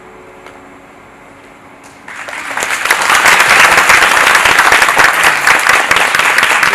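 The last held notes of the music ring out and fade, then audience applause breaks out about two seconds in, swelling quickly and staying loud.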